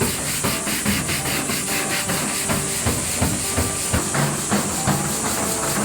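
Hand scrubbing and rubbing rust and oxidation off the painted steel skin of a 1959 Ford F100 truck door, in irregular strokes. A steady high hiss runs over it.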